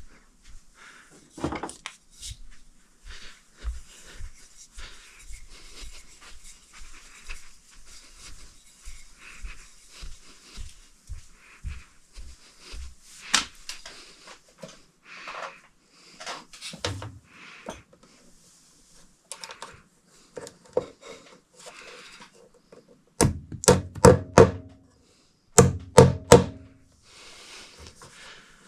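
Hammer tapping in cable fasteners to hold electrical cable to the ceiling: light taps through the first half, then two quick runs of loud strikes near the end, with rustling of the cable being handled in between.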